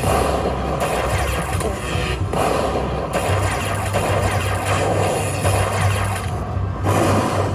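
Lightning Link slot machine spinning over busy casino floor noise, loud and dense, in sections that start and stop every second or so, with a steady low hum coming in about three seconds in.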